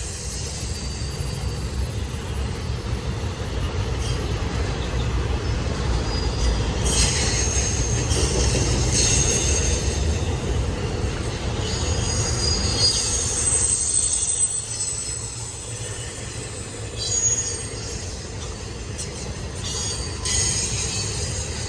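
Freight train cars rolling past with a steady low rumble of steel wheels on rail, cut by intermittent high-pitched wheel squeal coming and going several times.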